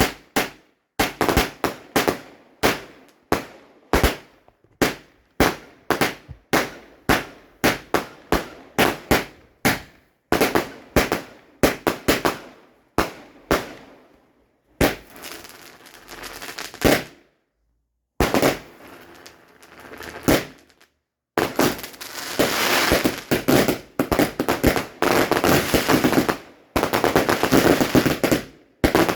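Fireworks going off: a run of sharp bangs, about two a second, for the first half, then stretches of dense crackling broken by short pauses.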